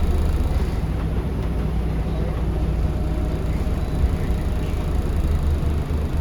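Steady interior drone of a Scania L94UB city bus under way: a deep rumble from the rear-mounted engine and drivetrain with road and tyre noise, heard from inside the cabin.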